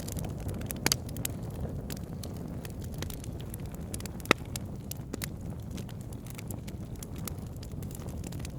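Campfire crackling over a low, steady rumble, with irregular sharp pops of burning wood; the loudest pop comes about four seconds in.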